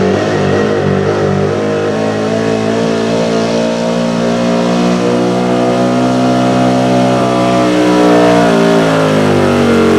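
A gas-engined 4x4 pickup truck at full throttle pulling a sled. The engine holds steady high revs, then sags slightly near the end.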